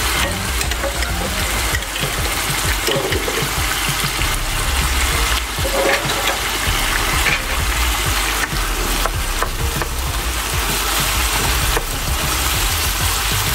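Chicken pieces sizzling steadily in hot oil in a frying pan, after ginger-garlic paste goes in; a spatula stirs the pieces near the end.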